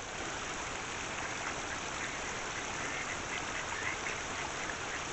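Mallard ducks calling in short, faint notes over a steady background hiss of water.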